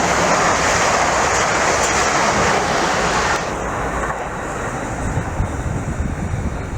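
A train passing at speed: a loud rushing noise of wheels and air that eases off about three and a half seconds in, leaving a lower rumble.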